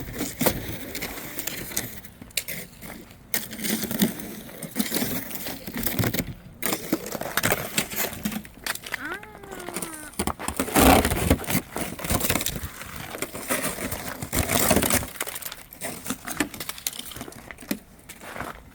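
A spatula scraping and cracking ice off a car, in irregular strokes.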